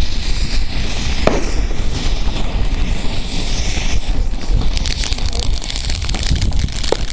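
Consumer firework going off, crackling steadily with a few sharper pops, a cluster of crackles about five seconds in, and wind rumbling on the microphone.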